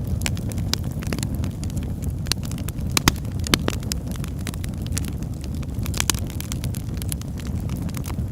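Log fire burning with a steady low rumble and frequent sharp crackles and pops, a few louder pops standing out about three, three and a half and six seconds in.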